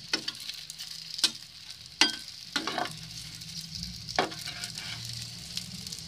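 Pieces of wheat-flour batter sizzling steadily as they shallow-fry in oil in a pan. A metal spatula scrapes and knocks against the pan several times as the pieces are turned.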